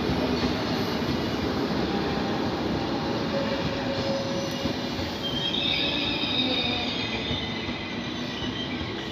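Train rolling on the station tracks with a steady rumble; about halfway through, high wheel squeals set in and carry on.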